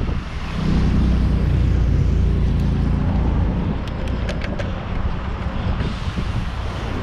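A motor vehicle's engine hums close by, swelling about half a second in and easing after a few seconds, over steady wind rush on the microphone while riding. A few sharp clicks come through near the middle.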